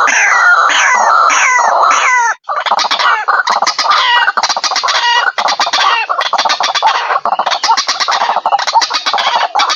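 White-breasted waterhen calling loudly. First comes a run of repeated falling 'ruak' notes, about two or three a second. After a brief break about two seconds in, a fast, dense chattering of short notes follows.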